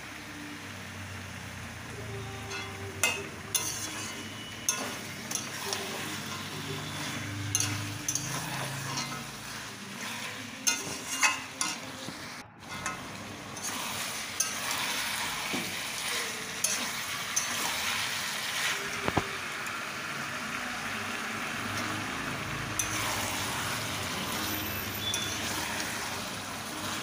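Chicken pieces sizzling in a hot kadai as they are fried down with spices and ginger-garlic paste, stirred and turned with a metal spatula that clicks and scrapes against the pan. The sizzle breaks off for a moment about twelve seconds in and is louder after that.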